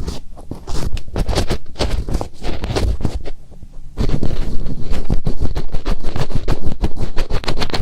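ASMR finger ear cleaning: fingertips rubbing and scratching over a binaural microphone's ear, loud and close, in quick irregular strokes. About four seconds in it grows louder and denser.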